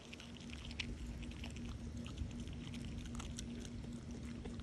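A dog chewing: a steady run of small wet clicks and crunches.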